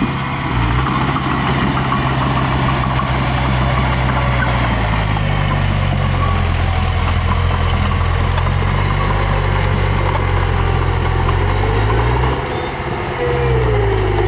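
Diesel engine of earthmoving machinery running steadily. Its note rises about five seconds in, dips briefly about twelve seconds in, then picks back up.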